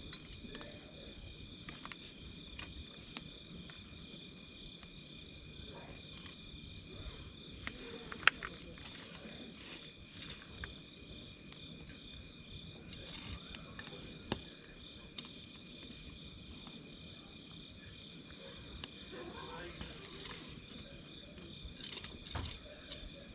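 Wood campfire crackling, with irregular sharp pops and one louder pop about eight seconds in, over a steady high chirring of insects.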